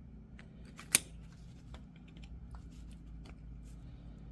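Small metal clicks and scrapes of a flathead screwdriver working a universal joint's retaining clip free on a front axle shaft, with one sharp metallic click about a second in. A low steady hum runs underneath.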